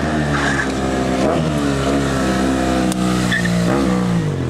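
Motorcycle engines revving, the pitch rising and falling several times.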